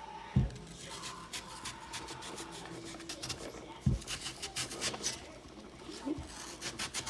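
An apple being peeled: a blade scraping off the skin in many short strokes, with two dull thumps.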